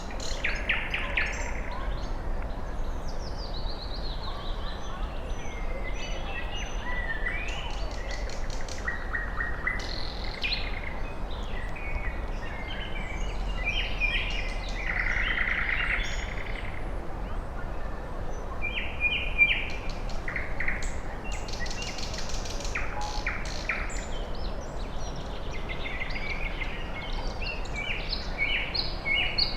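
Several woodland songbirds singing and calling over one another, short chirps, trills and whistled phrases overlapping, over a low, steady background rumble.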